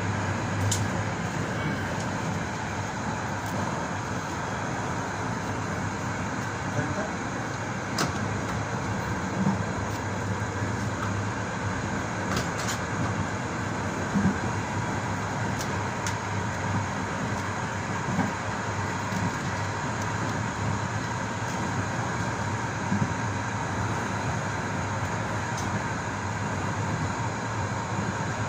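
Steady running noise of a passenger railway carriage travelling at speed, heard from inside the last coach: wheels rumbling on the rails with a low hum. Occasional sharp clicks and short thumps come at irregular intervals.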